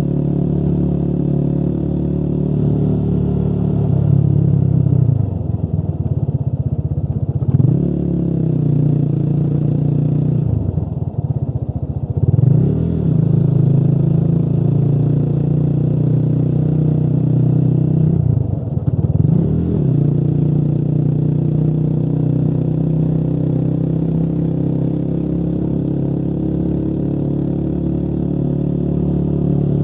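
Motorcycle engine running while under way, its pitch dipping and then climbing back three times.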